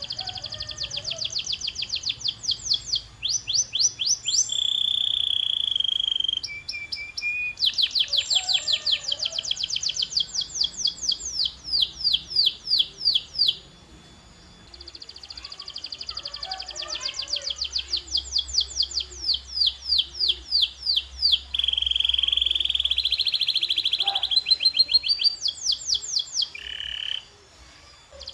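Canary singing a long song of rapid trills, each a run of quickly repeated notes, changing from faster to slower rolls and broken by a few held whistled notes. The song pauses briefly about halfway through and again near the end.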